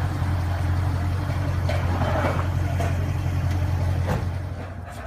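Jeep SRT8's V8 idling through a Borla exhaust, a steady deep drone; about four seconds in the drone drops off and the sound gets quieter.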